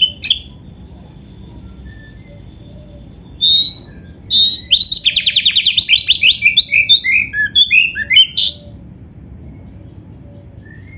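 Oriental magpie-robin (kacer) singing loud, varied song phrases. A short phrase comes at the start and a brief burst about three and a half seconds in. Then comes a long phrase of about four seconds with a rapid trill in the middle, which ends suddenly.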